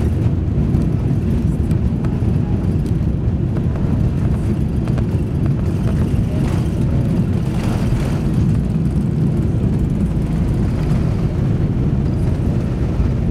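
Airbus A380 cabin noise: a steady, loud low rumble from the engines and airframe, with a few faint rattles.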